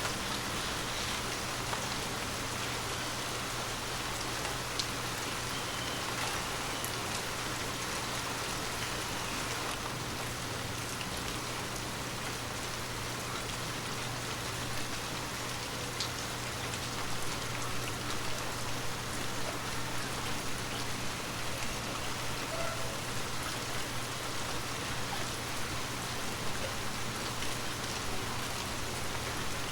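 Water drops tapping on glass: a dense, steady patter of small drips, a little more uneven in the second half.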